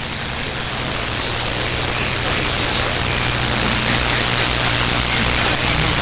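CB radio receiver putting out steady static with a low hum between transmissions, the open channel's noise slowly growing a little louder.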